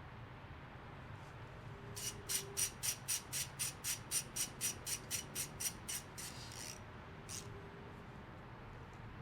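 Hand ratchet wrench clicking in a quick even run, about four clicks a second for some four seconds, then a couple more clicks.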